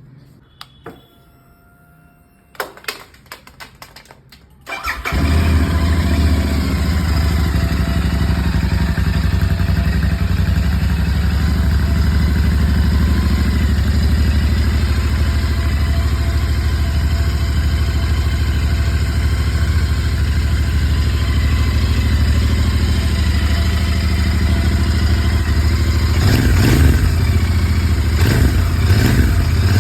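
Royal Enfield Interceptor 650's parallel-twin engine cold-started after sitting for two days: a few clicks, then it fires about five seconds in and settles into a loud, steady warm-up idle, with a few throttle blips near the end.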